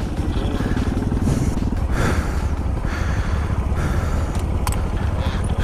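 Motorcycle engine running steadily, with a rapid, even firing pulse.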